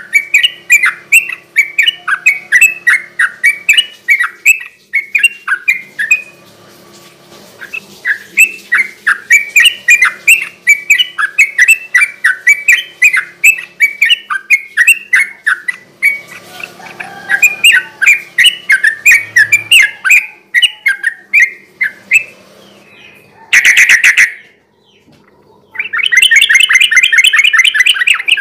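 Sooty-headed bulbul singing a fast, continuous run of short chirping notes, several a second. A brief loud burst comes about 23 seconds in, and a dense rapid trill follows near the end.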